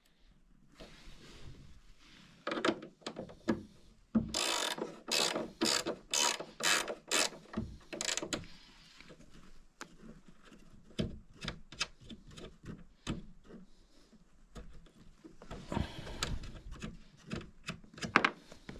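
Hand-tool work: a run of rasping, ratchet-like strokes, about one and a half a second at their loudest a few seconds in, with scattered clicks and knocks between.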